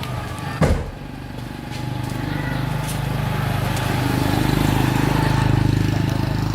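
A single sharp knock, then a vehicle engine running steadily, growing a little louder over the next few seconds.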